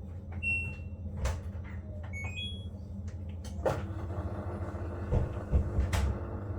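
Washing machine control panel beeping: one held beep, then a short chime of three rising tones. Sharp clicks and knocks come over a steady low hum.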